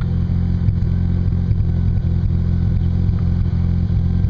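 1987 Mazda RX-7's 13B rotary engine idling steadily, heard from inside the cabin. The idle is set a little high because it tends to stall when set low.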